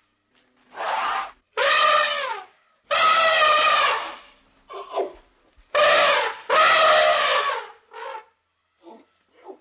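Elephant trumpeting: about five loud, brassy trumpet calls in quick succession, each dropping in pitch at its end, with a few short, fainter calls between them.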